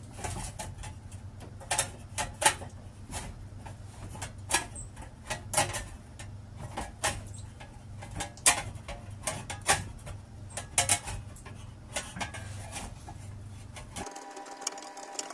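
Irregular sharp clicks and light taps of hand tools working sheet steel, over a steady low workshop hum. About a second before the end the hum cuts out.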